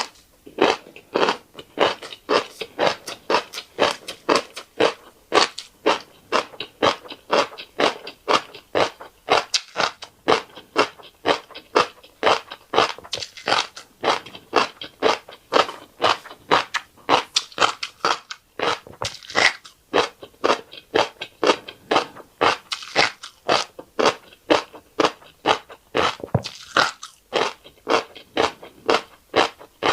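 Close-up chewing of a fish roe rice bowl, with the small fish eggs cracking between the teeth in a steady run of sharp clicks, several a second.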